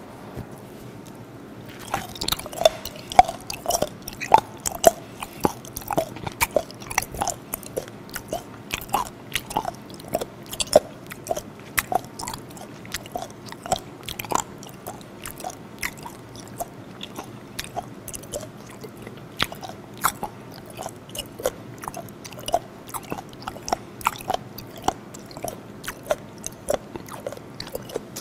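Close-miked chewing of a piece of fermented skate nose (hongeo), a steady run of wet clicks and smacks about two to three a second, starting about two seconds in. The nose piece is especially tough and chewy, chewed long like gum.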